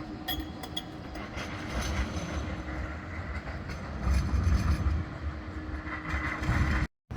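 A Bombardier Flexity 2 tram running on street track, with a rumbling, rattling wheel and rail noise that swells about four seconds in. The sound cuts out briefly near the end.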